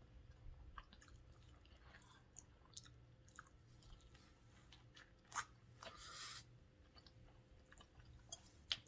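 Faint eating sounds: a person chewing food, with scattered small mouth clicks and a short breathy hiss about six seconds in.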